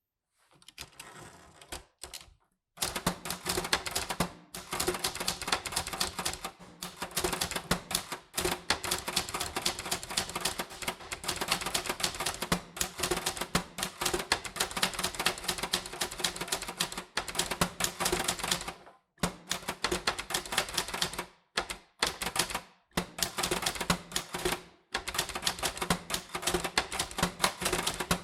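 Typewriter typing: rapid runs of sharp keystroke clicks, broken by a few brief pauses.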